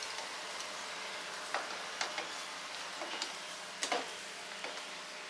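Chickens grilling over charcoal: a steady high sizzling hiss with scattered sharp pops and clicks, about six of them, the loudest a little under four seconds in.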